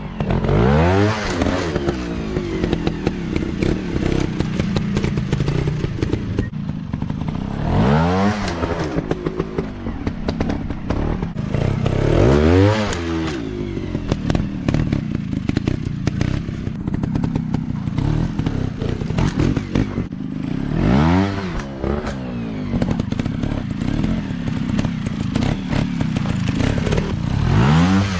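Dirt bike engines running steadily, the throttle opened and let back about five times so the engine pitch rises and falls, with clatter and knocks throughout.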